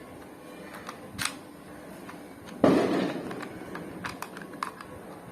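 Handling noises from toys being unboxed: a few small plastic clicks, then a loud knock about two and a half seconds in that trails off, followed by more light clicks.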